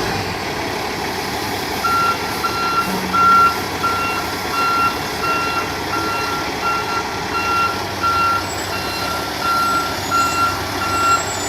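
A truck's reversing alarm beeping in a steady run of short high beeps that start about two seconds in, over the steady rumble of the vehicle.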